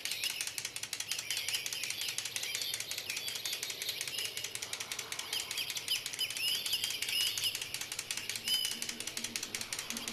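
Many birds chirping over a dense, rapid clicking.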